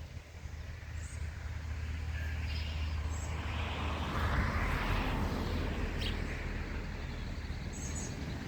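Outdoor ambience: a vehicle passing, its noise swelling to a peak around the middle and then easing, over a steady low rumble, with a few brief high bird chirps.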